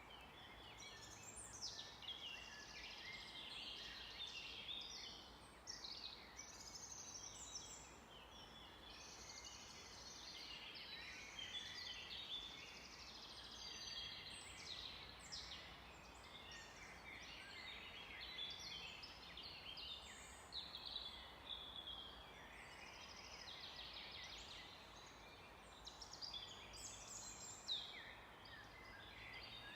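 A chorus of songbirds, many singing at once: quick, overlapping high chirps, trills and whistled glides, over a faint steady background hiss.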